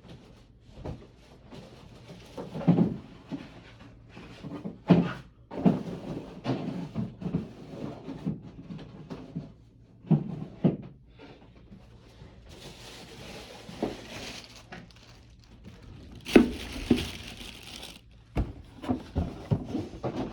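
Cardboard packaging being pulled apart and handled during an unboxing: a string of irregular knocks and thunks, with two stretches of rustling or tearing about two-thirds of the way through.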